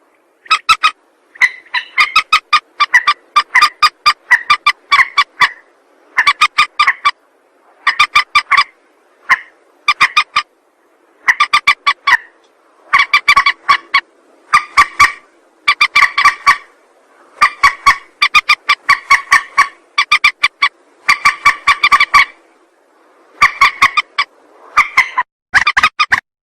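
Mandar (rail) lure call: repeated bursts of rapid, sharp calling notes, each burst under a second long and following one another about every second with short pauses.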